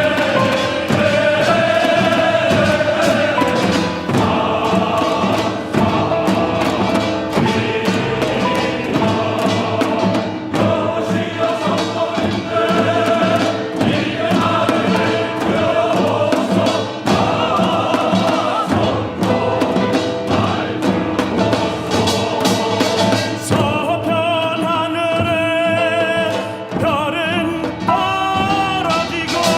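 Church choir singing with instrumental accompaniment, sustained and loud, with voices wavering in vibrato near the end.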